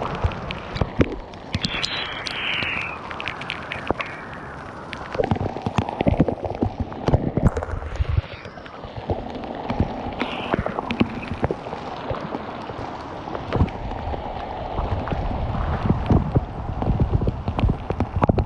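Hail and rain striking a surface near the microphone: a dense run of sharp, irregular hits over a steady rush of downpour, with wind buffeting the microphone.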